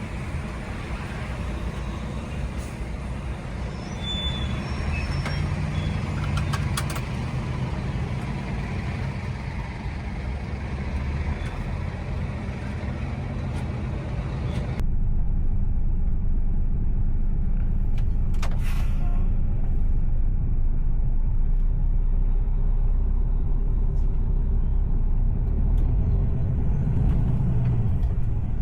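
Steady low rumble of a heavy truck's engine and road noise while driving. About halfway through the sound changes abruptly: the hiss above drops away and the low rumble grows louder.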